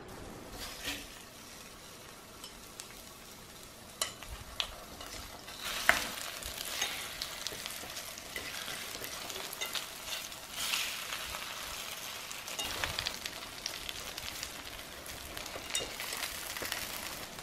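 Food frying in hot oil in a pan, a steady sizzle that grows louder about six seconds in, with a few sharp clicks and knocks in between.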